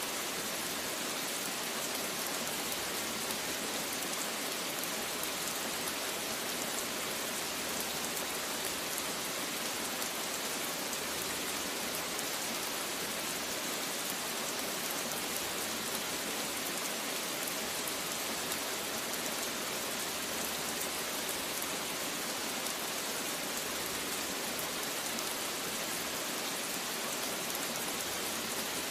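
Steady rain falling, an even dense hiss with no change and no thunder.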